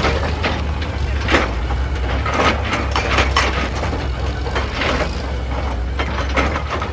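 Excavator's diesel engine running steadily under a clatter of repeated knocks and scrapes, as of rock and stone hitting and grinding.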